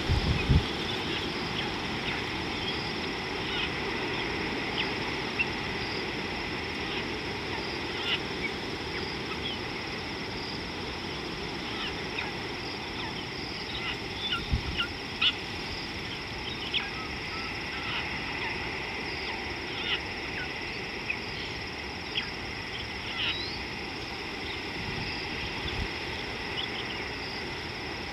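Outdoor wild ambience: scattered short bird chirps and whistles over a steady high-pitched drone and background hiss, with a couple of low wind thumps on the microphone.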